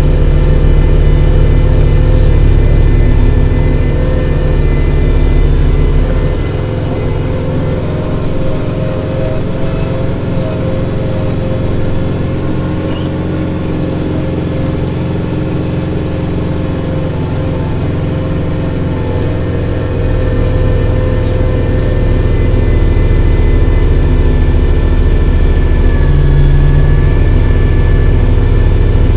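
Kubota tractor's diesel engine running steadily while working a snow blower. The sound drops back a little about six seconds in and comes up again about two-thirds of the way through.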